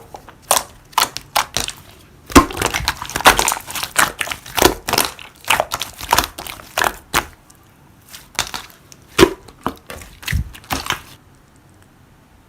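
Slime being pressed and worked by hand, giving irregular sharp pops and crackles a few times a second, with some louder clicks among them; the popping stops about eleven seconds in.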